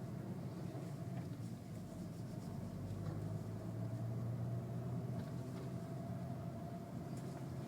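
Volkswagen Golf R driving at a steady pace: a continuous low engine and exhaust drone with road noise, heard from inside the cabin.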